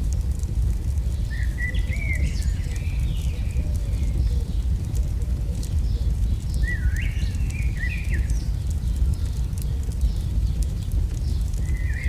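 AI-generated campfire ambience: a steady low rumble of fire with many small sharp crackles. Birds chirp in short phrases about a second and a half in, again around seven seconds, and near the end.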